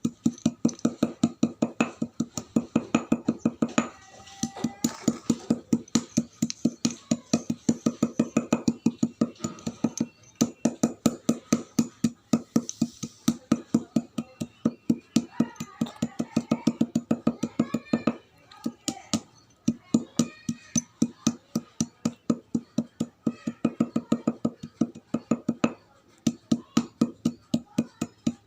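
Chalk being chewed close to the microphone: crisp crunches about five a second in long runs, with short pauses between runs.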